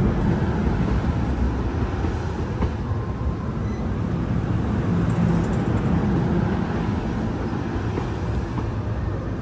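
A train running by, a steady deep rumble that holds at an even level throughout.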